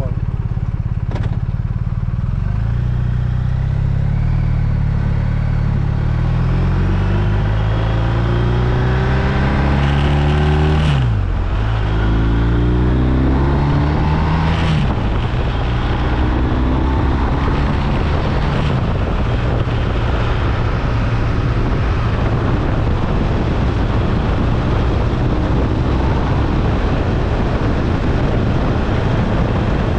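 BMW R1250RT's boxer-twin engine accelerating through the gears. Its pitch rises and then drops at upshifts about 11, 15 and 19 seconds in, before it settles into a steady cruise with wind rush.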